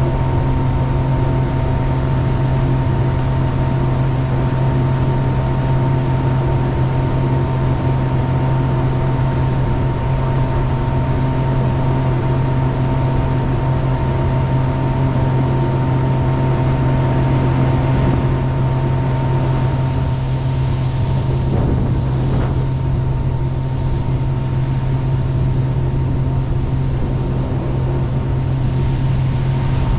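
Jet boat's engine running steadily at an even speed, a constant low hum with a steady noisy rush over it.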